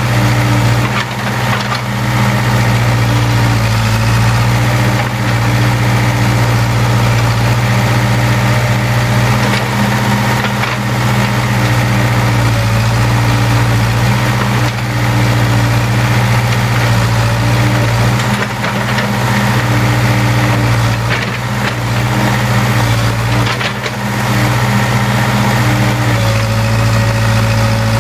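Case 580K backhoe-loader's diesel engine running steadily, its pitch shifting slightly near the end.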